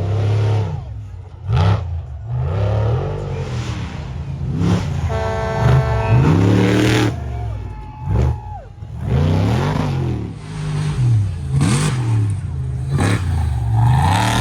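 Off-road prerunner race truck engines revving hard and easing off over and over, the engine note rising and falling every second or two as the trucks run the dirt track. A short steady tone sounds about five seconds in.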